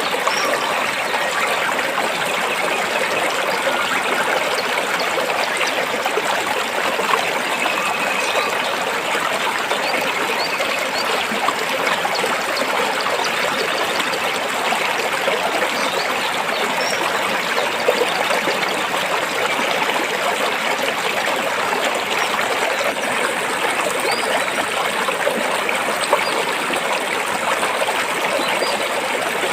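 Stream of water flowing between rocks, a steady rushing trickle.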